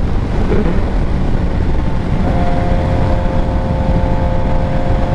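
Suzuki GSX-R 600 inline-four running steadily while riding, with rumble and wind noise on the onboard microphone. A steady held tone joins about two seconds in.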